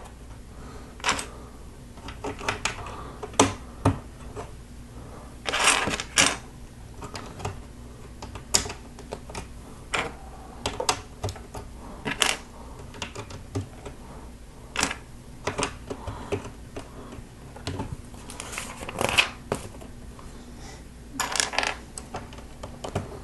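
Plastic Lego bricks clicking and snapping together as curved macaroni bricks and reverse slope bricks are pressed on, with irregular hard plastic clicks. There are a few brief rattles of loose pieces being sorted through.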